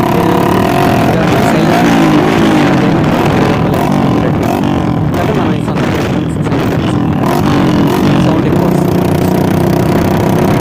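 Hero Passion Pro motorcycle's single-cylinder engine running through a remodelled aftermarket silencer, loud and revving up and down in pitch. The silencer is built to give the bike a Bullet-like exhaust note.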